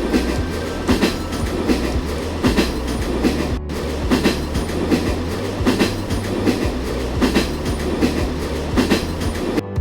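Train running on the track: a steady low rumble with the wheels clacking over rail joints several times a second.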